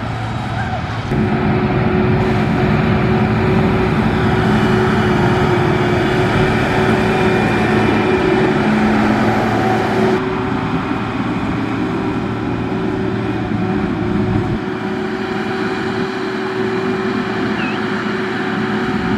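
Heavy diesel construction-machine engine running steadily. It gets louder about a second in, and its sound shifts again about ten seconds in and near fifteen seconds.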